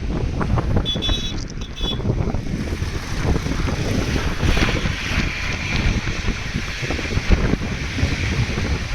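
Wind buffeting the microphone, a steady gusty rumble, with a brief high warbling tone about a second in.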